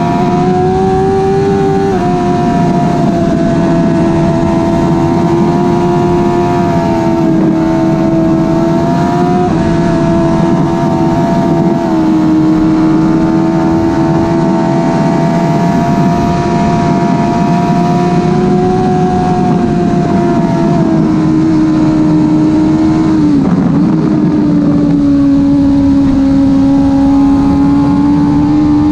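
Suzuki GSX-R 1000 K5 inline-four sport bike engine with a slip-on exhaust, running hard at high, fairly steady revs from the rider's seat. The pitch steps down briefly a few times, and drops more clearly about two-thirds of the way through before settling a little lower.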